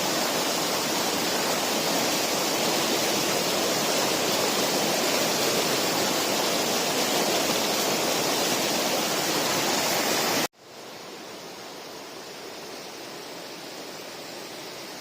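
Steady rush of running river water, a loud even hiss. About ten and a half seconds in it cuts off suddenly, and a much quieter, softer rush follows.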